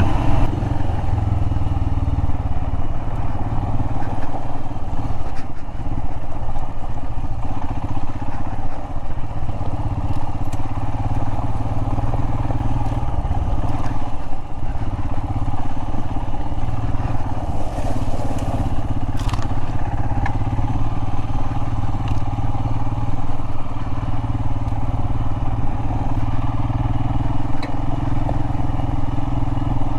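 Royal Enfield Himalayan's single-cylinder engine running steadily as the motorcycle rides off-road, with a few sharp clicks along the way.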